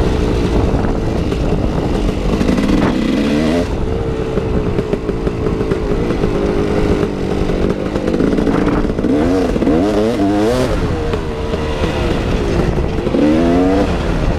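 KTM 380 EXC two-stroke dirt bike engine on the move, revving up and down through the throttle, with quick rises and falls in pitch about nine seconds in and again near the end.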